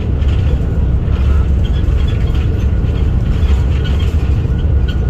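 Jet airliner cabin noise: the steady low rumble of the engines and airframe heard from inside the passenger cabin.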